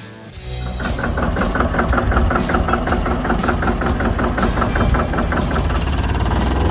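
Lanz Bulldog tractor's single-cylinder two-stroke hot-bulb engine running steadily, a fast even beat.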